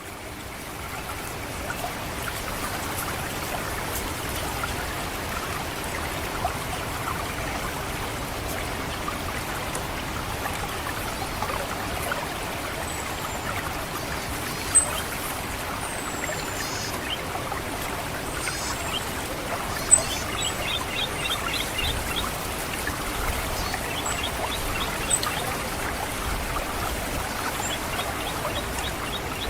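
Water trickling steadily through a rice paddy. From about halfway through, an orange-headed thrush gives short, high, thin 'cit' calls and sweeping notes, with several bursts of rapid ticking.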